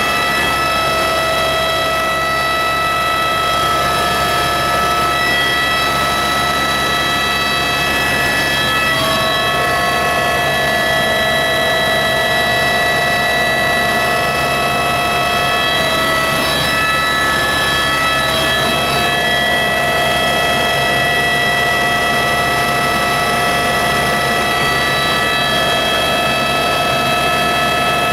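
Helicopter in flight, heard from aboard: a steady engine and rotor drone under a stack of high whining tones that shift slightly in pitch a few times.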